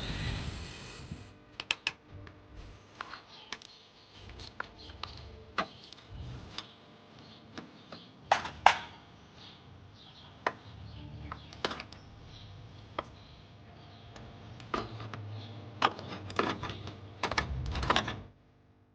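Irregular sharp clicks and metal knocks of hand tools working on a push mower's engine, with the loudest knocks about eight or nine seconds in, over a faint low hum.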